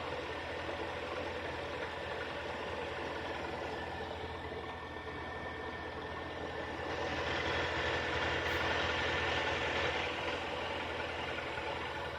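Kia Sportage (third generation) engine running with the knock that the owner is recording it to show. It grows louder for a few seconds about seven seconds in, then settles back.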